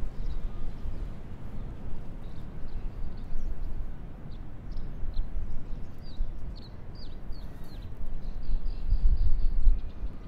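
Outdoor ambience with birds chirping: short, high, falling chirps come in a quick run through the middle and again near the end. Underneath is an uneven low rumble that swells near the end.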